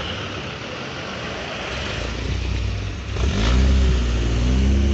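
Car engine running, then revved hard about three seconds in, its pitch rising and falling; the revving is the loudest part.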